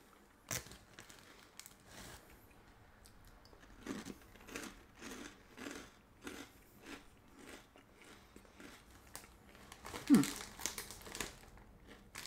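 Crunchy Cheetos corn puffs being bitten and chewed: a sharp crunch about half a second in, then steady chewing at about two chews a second. The foil snack bag crinkles, and there is a louder brief burst about ten seconds in.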